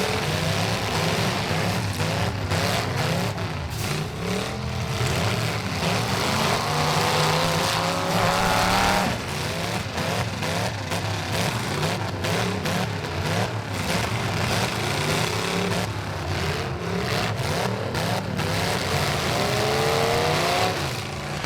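Several racing trucks' engines running hard together, their pitch repeatedly climbing as they accelerate and dropping as they back off.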